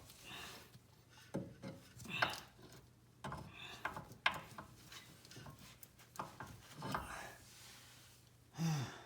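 Scattered knocks and scrapes of a car's front drive axle being pushed and worked into place by hand, with a man's strained breaths and grunts.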